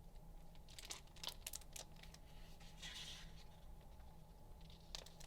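Faint paper rustling and a few light ticks of a picture book being opened and its pages turned to the title page.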